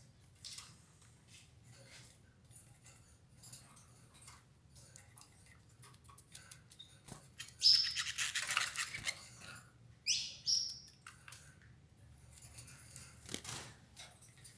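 Domestic canaries pecking at escarole with faint scattered clicks, then a loud short canary call with a noisy rasp about eight seconds in and another brief rising chirp about ten seconds in.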